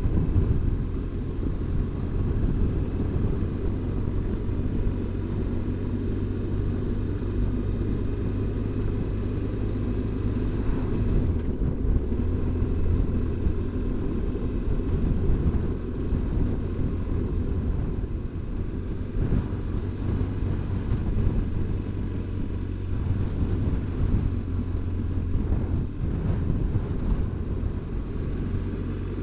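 BMW R1200GS Adventure's flat-twin boxer engine running steadily while riding along, with a low, even rumble and no marked changes in speed.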